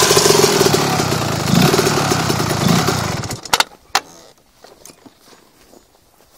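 1987 Kawasaki KMX 125's single-cylinder two-stroke engine running with a few short throttle blips, then stopping about three seconds in. Two sharp clicks follow just after it dies, then only faint small ticks.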